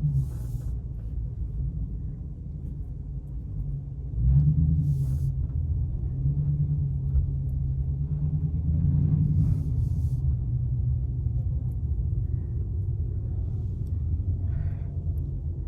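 Car engine and exhaust rumbling steadily at low speed, jumping louder about four seconds in as the throttle is opened.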